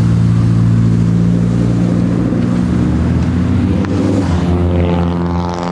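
Car engine running steadily while driving, a constant low drone whose pitch drops slightly about four seconds in.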